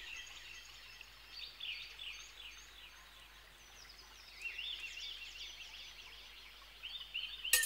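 Birds chirping in runs of short rising-and-falling notes, used as a sample in the ambient intro of a music remix. A dense beat comes in right at the end.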